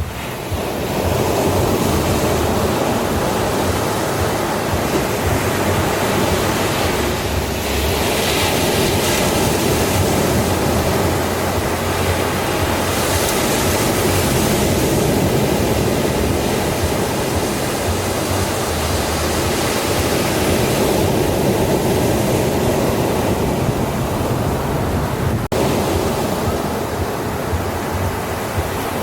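Ocean surf washing continuously onto a beach, with the hiss of the waves rising and falling as swells break.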